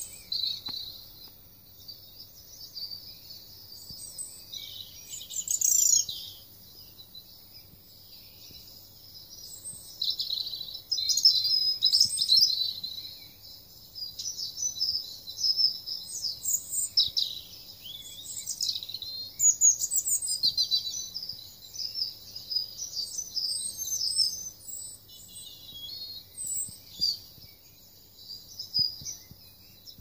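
Songbirds singing and calling: many quick, high chirps and trills in bursts with short gaps.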